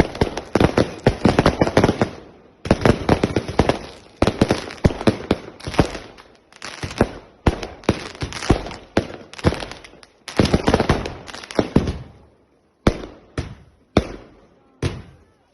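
Consumer firework cakes firing: rapid volleys of sharp bangs and crackle in dense clusters. About twelve seconds in, after a short gap, the volleys thin out to single bangs roughly every half second to a second.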